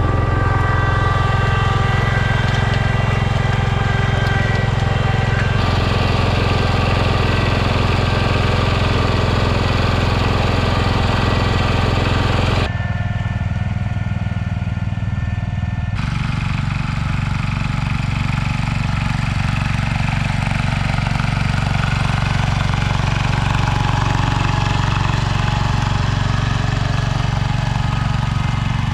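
Garden tractor engine running steadily. The sound changes abruptly about 6, 13 and 16 seconds in.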